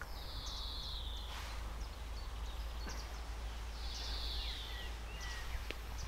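A small songbird singing two short falling phrases about four seconds apart, with a few brief chirps after the second, over a steady low rumble.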